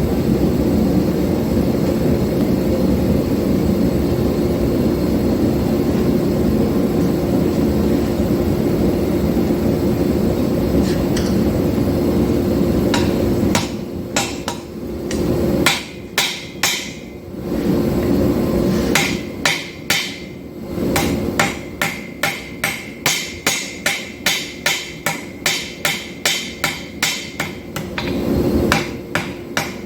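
Forging hammer blows on hot steel against an anvil, with metallic ringing. They come irregularly at first, then settle into an even rhythm of about two strikes a second. For roughly the first half, a steady mechanical running noise with a low hum fills the sound before the separate blows begin.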